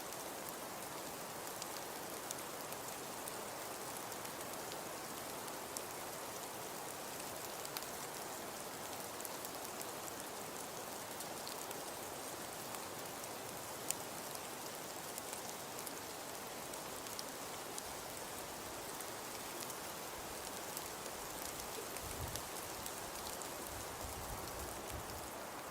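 Steady patter of precipitation falling on surfaces, sold as a snowfall sound: an even hiss dotted with many faint, light ticks and one sharper tick about halfway through. A few low thuds come near the end.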